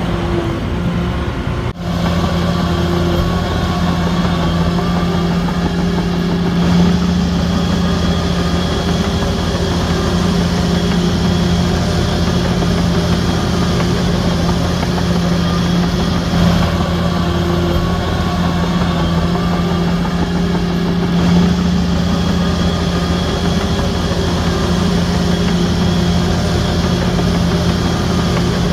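Shantui DH17C3 crawler bulldozer's diesel engine running steadily, with a brief drop in sound about two seconds in.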